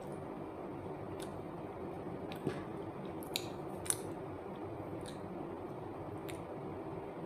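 A person chewing a soft banana coated in chocolate syrup close to the microphone, with scattered wet mouth clicks and smacks, over a steady low background noise.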